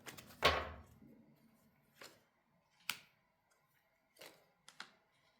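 Tarot cards being handled and laid out on a table: a brushing slide of cards about half a second in, then a few short snaps and taps spread over the next few seconds.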